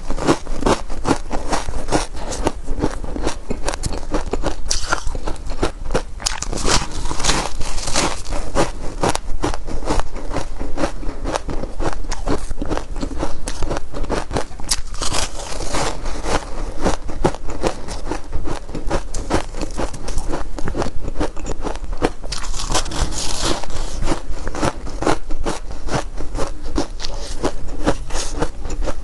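Close-miked biting and chewing of squeaky shaved ice: dense, continuous crunching and crackling, with a few louder bites every several seconds.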